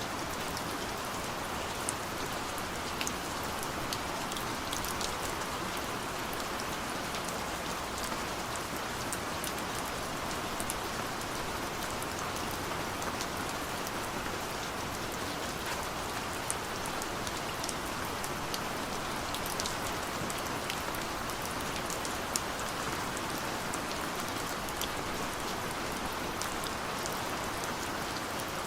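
Steady rain falling on a surface, an even hiss with scattered sharp ticks of individual drops hitting close by.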